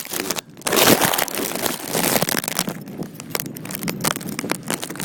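Plastic wrapped over a phone crinkling and crackling right against its microphone, a loud, irregular run of rustles and sharp crackles.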